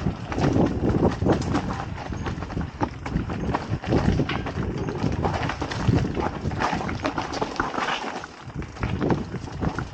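Mountain bike clattering over a rough, rocky trail: a dense run of irregular knocks and rattles over tyre rumble.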